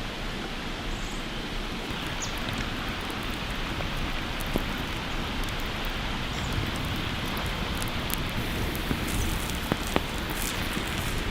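Wood campfire burning with a steady hiss and scattered sharp crackles and pops, the pops coming more often in the second half.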